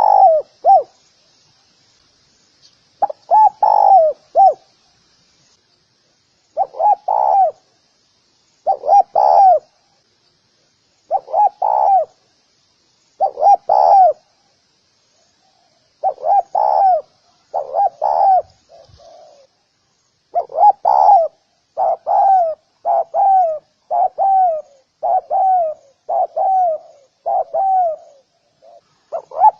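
Spotted dove cooing: short repeated coo phrases, a couple of seconds apart at first, then coming faster, about one a second, in the second half.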